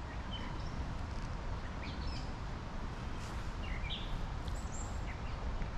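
Several short, high songbird chirps scattered over the steady rush of a creek.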